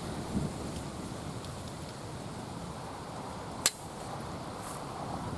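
Strong wind buffeting the microphone as a steady low rumble, with one sharp click about three and a half seconds in.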